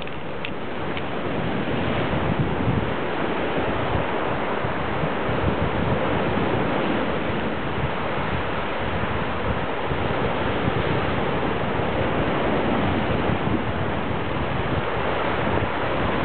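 Rough sea waves surging and breaking, whipped up by typhoon winds, with wind buffeting the microphone. A steady, unbroken rush of noise.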